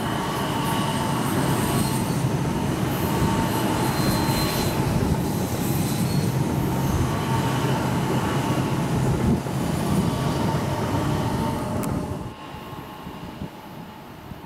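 ICE high-speed train rolling past close by, a steady rumble of wheels and running gear with faint whining tones over it. About twelve seconds in it drops suddenly to a much quieter, distant train sound.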